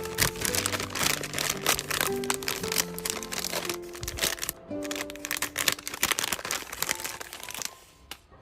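Crinkling, rustling and light tapping of packing materials being handled over soft background music with held notes; both fade out near the end.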